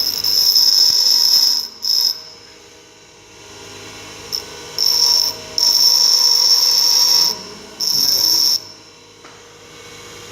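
Grinder running with a mild-steel tool blank pressed against the wheel in several separate passes, each a loud, high-pitched screech that starts and stops abruptly; between passes only the motor's steady hum is left.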